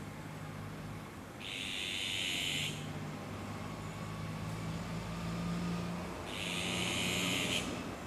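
A bird calling: two drawn-out, harsh calls, each a little over a second long, about five seconds apart.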